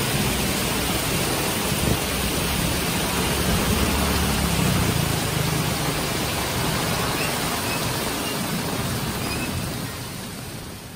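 Heavy rain falling, a dense steady hiss, with a low rumble underneath during the first half. The sound fades out near the end.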